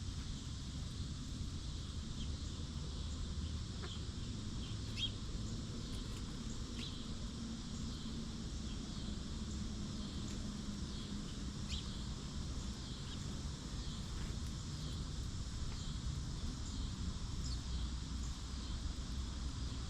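Rural outdoor ambience: a steady high-pitched insect chorus with a few short bird chirps, over a low steady rumble.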